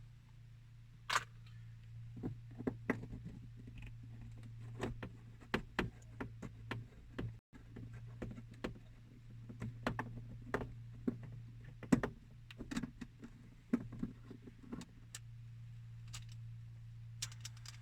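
Irregular clicks, taps and knocks of plastic car interior trim and screws being handled with a screwdriver during trim removal, over a steady low hum.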